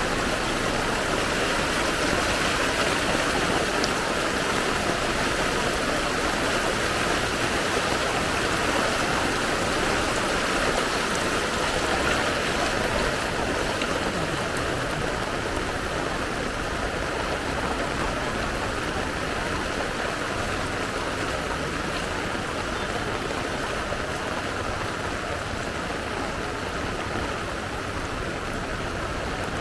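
Fast-flowing floodwater rushing steadily, easing slightly about halfway through.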